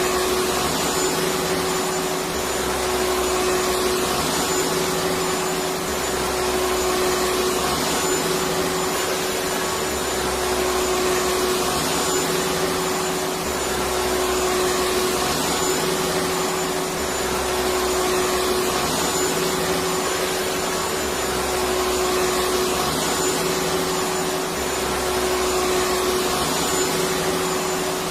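Electric vacuum cleaner running steadily: a continuous rushing noise with a steady motor hum, swelling and easing slightly every few seconds.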